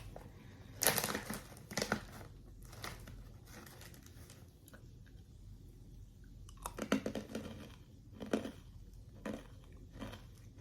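Crinkly snack packaging being handled and torn open, in two crackling bursts about a second in and again around seven to eight seconds in, with a few softer rustles after.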